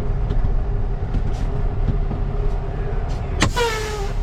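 Semi truck's diesel engine running steadily at low revs, heard from inside the cab. Near the end there is a sharp click followed by a short hiss with a whistling tone that falls slightly in pitch.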